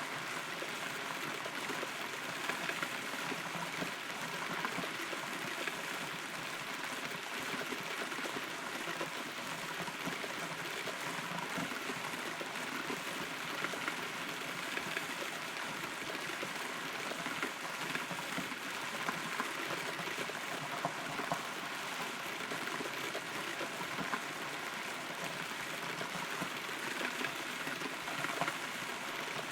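Steady rain heard from inside a hollow rotten tree trunk, a continuous patter with frequent small sharper drop hits.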